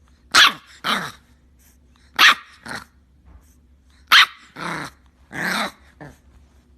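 A dog barking: about eight short barks, mostly in pairs, over a faint steady hum.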